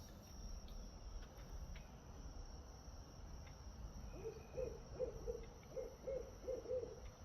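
An owl hooting faintly: a run of about ten short hoots, roughly four a second, beginning about four seconds in.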